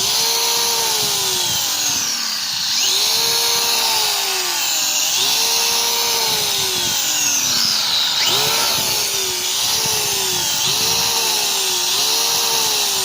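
Electric motor and drivetrain of a 2-cell RC drag car whining, the pitch rising and falling about seven times as the throttle is repeatedly opened and eased off.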